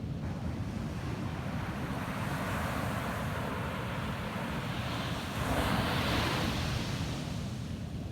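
Ocean waves breaking and washing up the beach: a rush that builds, then a louder wave about halfway through that crests and eases off near the end, over a low rumble of wind buffeting the microphone.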